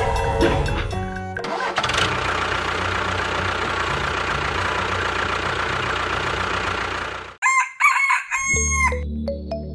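A steady rough mechanical noise like a small engine running for several seconds, which stops abruptly. A rooster then crows, rising and falling.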